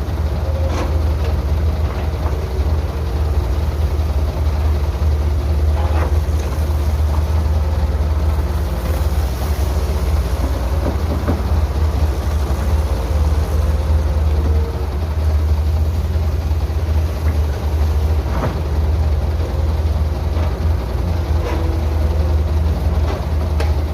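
Heavy construction machinery's diesel engine running steadily, with wavering mid-pitched tones over it and a few sharp knocks spread through.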